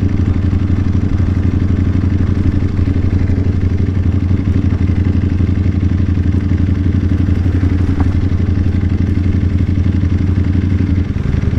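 Motorcycle engine running at steady revs with an even, unchanging note, easing off slightly about eleven seconds in.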